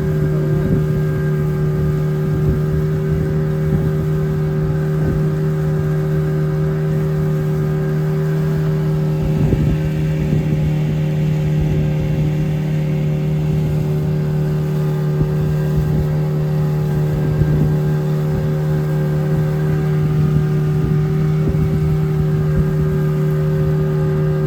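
An engine running steadily at an even speed: a constant low drone with a rumbling noise underneath.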